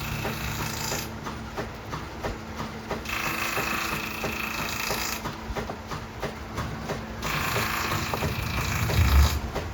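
Steam-driven 1930s copying lathe turning an oak axe handle from a template: its machinery clicks in a steady rapid rhythm with a low hum, while the cutter hisses through the wood in three passes of about two seconds each. A low thump comes near the end.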